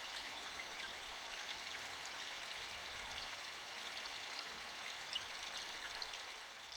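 Steady rain falling in a forest, a continuous hiss with many small individual drops ticking through it.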